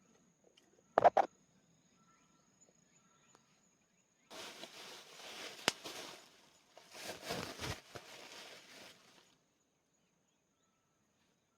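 A cricket trilling steadily at one high pitch. About a second in come two sharp knocks, the loudest sounds, followed later by two stretches of rustling, each a couple of seconds long, with a single sharp click in the first.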